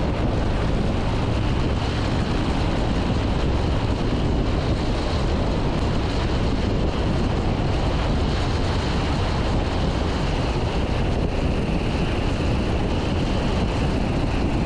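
Steady drone of a Piper Archer's engine and airflow in the cockpit, picked up through the pilot's headset intercom during the landing.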